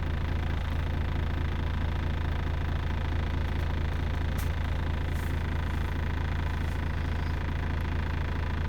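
Volvo FH4 truck's diesel engine idling steadily, with an even low hum.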